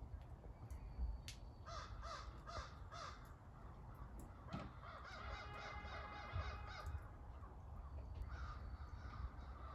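Crows cawing: a run of four caws about two seconds in, then a longer burst of quicker calls in the middle and fainter ones near the end, over a low rumble.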